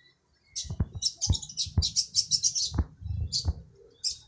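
Small birds chirping in a quick run of short, high notes, about five a second, then a few single chirps near the end. A few soft low thumps sound under the chirps.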